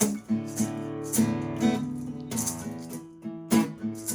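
Instrumental opening of a song: guitar playing chords with a shaker keeping a steady beat over them.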